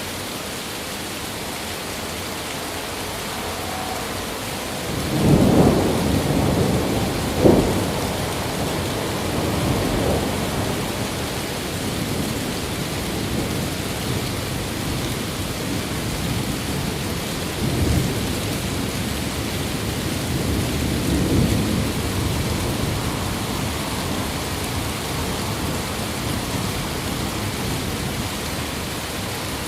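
Steady heavy rain with rolling thunder. A rumble builds about five seconds in, with a sharp crack a couple of seconds later. More rumbling follows, with another crack near the middle and a last roll a few seconds after it.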